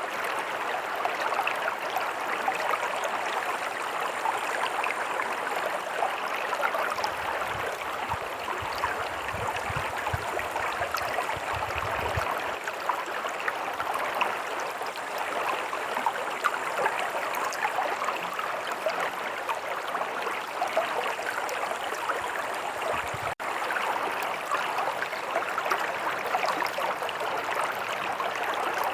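Stream running steadily, an even rush of flowing water, with a brief low rumble about a third of the way through.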